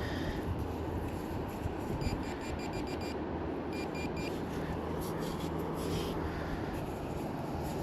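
Handheld metal-detecting pinpointer beeping in quick runs of short, same-pitched beeps, a burst of about seven a couple of seconds in and a shorter burst of about four soon after, signalling metal close to its tip. Steady wind rumble on the microphone throughout.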